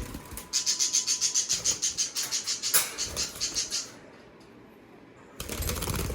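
Parakeets (budgerigars) chirping in a fast run of high, rapid chirps for about the first four seconds, with one sharp click in the middle. After a short lull comes a burst of rustling near the end.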